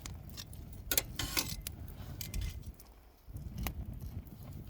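Campfire firewood burning hard, crackling and popping with irregular sharp snaps over a low rumble of the fire drawing air.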